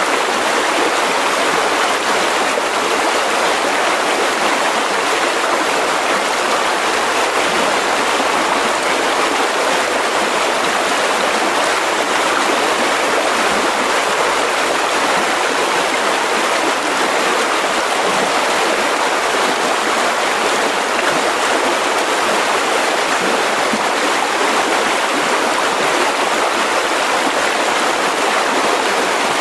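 Mountain river rushing steadily over rocks, a constant even roar of water.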